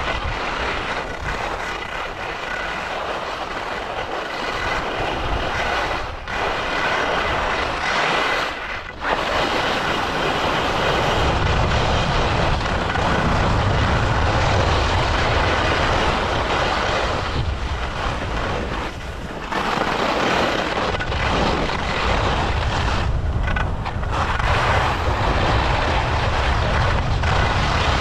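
Ski edges side-slipping down a hard-packed race course, a steady scraping hiss with a few brief pauses. Wind buffets the microphone, heavier from about eleven seconds in.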